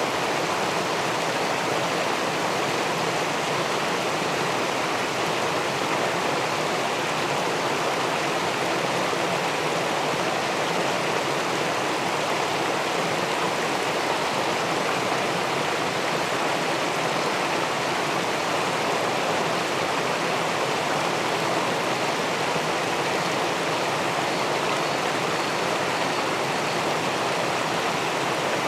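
Steady rushing of river water pouring over a weir into the pool below, an even, unbroken noise.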